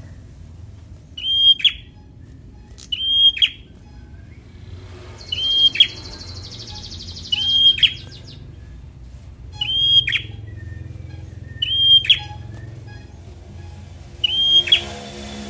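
A prenjak songbird calling over and over, a short sharp high note with a quick downward sweep, repeated about every two seconds. A high buzzy rasp runs between calls about a third of the way in.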